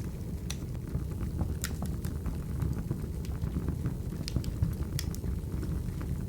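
Wood fire crackling: a steady low rumble under irregular sharp snaps and pops.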